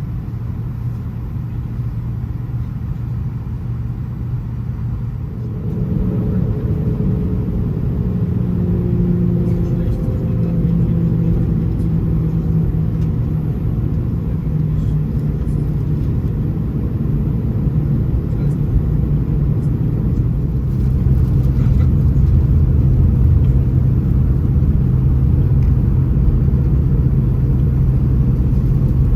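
Cabin rumble of an Airbus A320-214's CFM56 jet engines heard from a window seat. The engine noise steps up about five seconds in and again about twenty seconds in, as thrust is added.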